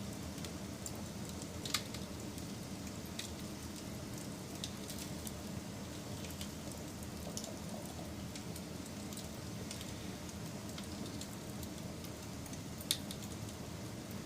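Wood fire burning with a steady low rumble and scattered small crackles, and two louder sharp pops, one near the start and one near the end.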